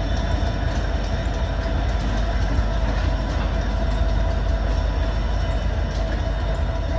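Ohio Central diesel locomotives running light through a rail yard: a steady, loud engine rumble with a steady whine over it.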